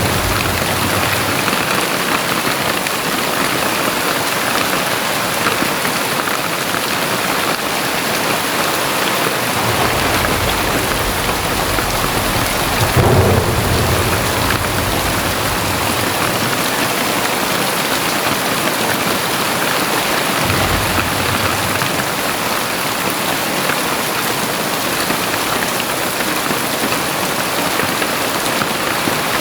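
Very heavy rain pouring steadily, with a low rumble of thunder that swells and peaks about halfway through.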